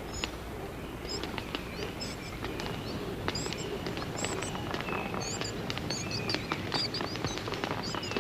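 Forest birds chirping: many short, high chirps and clicks over a steady low background, gradually growing louder.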